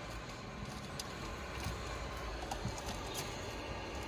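A few faint clicks of plastic dashboard trim and parts being handled, over a steady low background noise.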